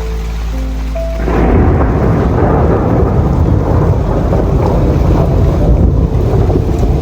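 Thunder rumbling over heavy rain, rising suddenly about a second in and holding steady, with soft music underneath.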